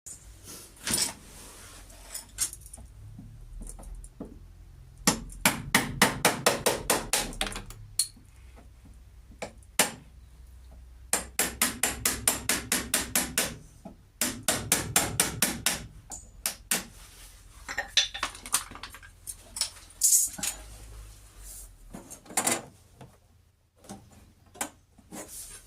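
Hammer blows in three quick runs of about five a second, with single knocks in between.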